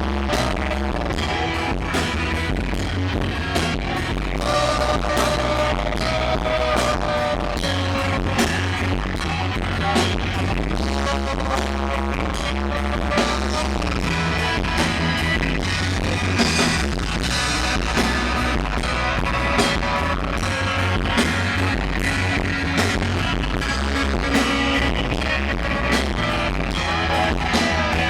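Rock band playing, with a sung vocal line over guitar and a steady drum beat.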